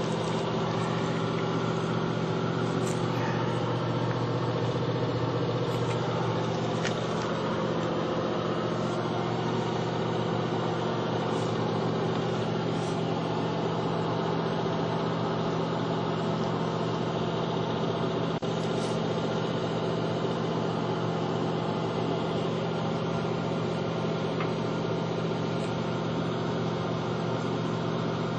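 Steady machine hum of a running motor, unchanging throughout, with a few faint ticks.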